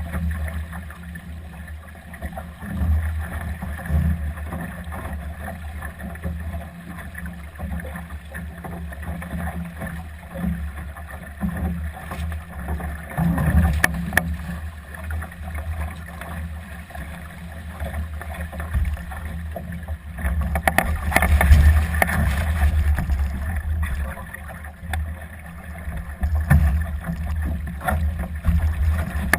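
Wind buffeting and water rushing along the hull of a Solo sailing dinghy under way in strong gusty wind, a deep rumble that swells and eases with the gusts.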